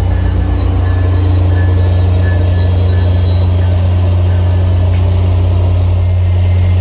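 Diesel locomotive of a commuter train running, with a steady low drone and a sharp click about five seconds in.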